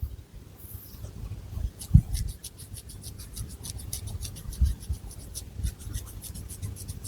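Long fingernails scratching through thick hair against the scalp, in quick repeated crisp strokes several times a second, with soft low thumps of hand contact.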